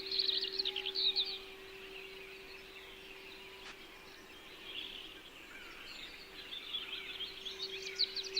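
Small songbirds chirping in quick high trills, in a burst over the first second or so and again through the last couple of seconds. Under them a steady low held tone, a throat-chakra frequency, sounds throughout.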